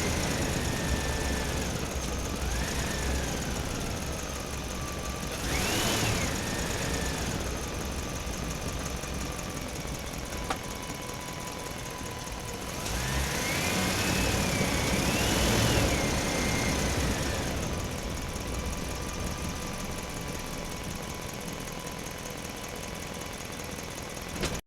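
Truck motor running, with a whine that rises and falls in pitch. The whine swells briefly about six seconds in and again between about thirteen and seventeen seconds.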